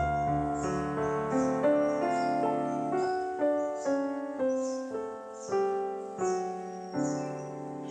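Background piano music: slow, gentle notes and chords struck about once every second, each dying away.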